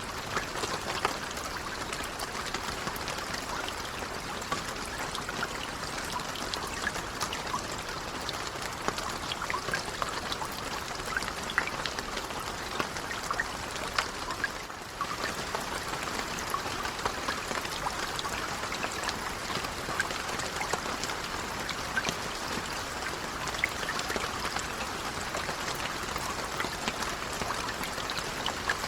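Steady rain falling, an even hiss scattered with many individual drop ticks, with a brief dip in level about halfway through.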